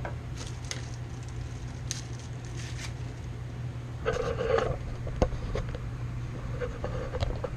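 Plastic plumbing fittings and tubing being handled and fitted together: scattered light clicks and scrapes, with a short burst of rustling about four seconds in, over a steady low hum.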